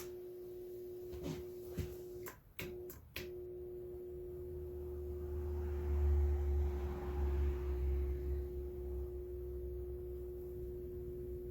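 Homemade spot welder's microwave-oven transformer humming steadily while the weld button is held. There are a few clicks a couple of seconds in, and a louder, deeper hum swells from about four to nine seconds in as current passes through the weld.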